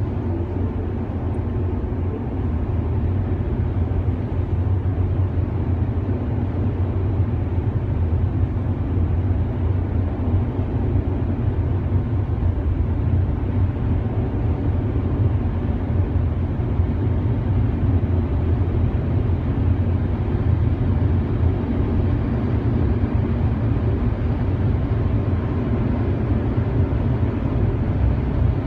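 Car wash equipment running: a steady low rumble with a hiss above it, growing a little louder in the first few seconds and then holding level.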